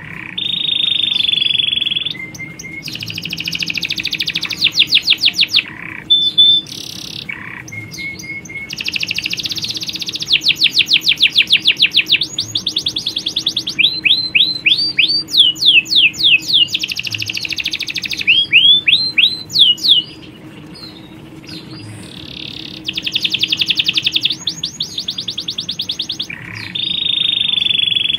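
Domestic canaries, males and females, singing: long rapid trills and rolls, some held on one note, some as quick series of sweeping notes, with brief pauses between phrases.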